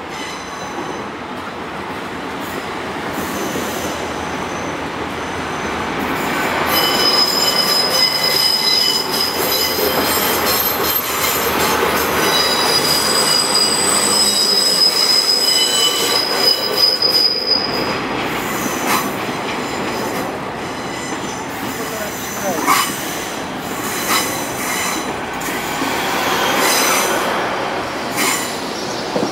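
Great Western Railway Hitachi Intercity Express Train pulling into the platform, its running noise growing louder as it nears and passes. A high-pitched squeal from the wheels sounds from about seven to seventeen seconds in, while the train slows. After that it rolls on more quietly, with a few clunks over the rail joints near the end.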